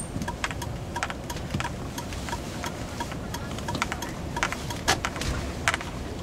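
Inside a 2005 Mazda6 (GG) driving over broken road: a steady low road rumble with irregular sharp knocks and rattles, several a second. This is the knock the owner traces to the steering rack on the right, passenger side, a known fault of these cars.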